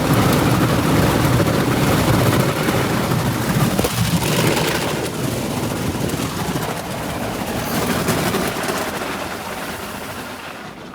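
Automatic tunnel car wash equipment running around the car, heard from inside the cabin: a loud, steady roar of machinery and water spray that fades over the last couple of seconds.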